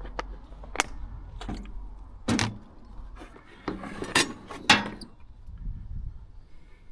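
Irregular clatter of knocks, clicks and scrapes, loudest about two seconds in and again about four to five seconds in.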